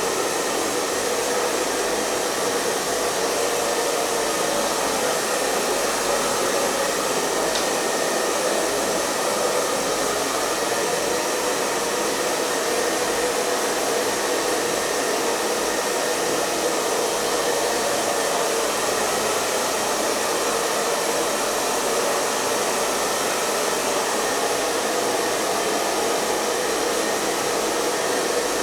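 Hair dryer running continuously at a steady speed: an even, unbroken rush of airflow with a faint steady motor hum underneath.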